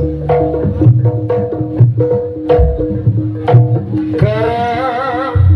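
Jaranan gamelan music: hand-drum strokes over two repeating struck metal notes. About four seconds in, a held, wavering melody line comes in over them.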